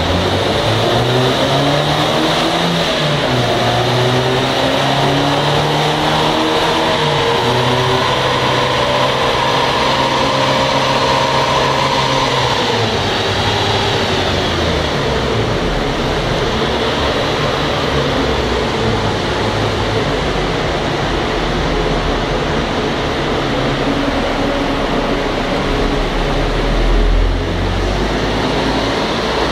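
Fiat Grande Punto 1.2 8-valve four-cylinder petrol engine running under load on a chassis dynamometer: the revs climb for the first dozen seconds, then fall away about 13 seconds in and run on lower and unevenly, over a steady rushing noise.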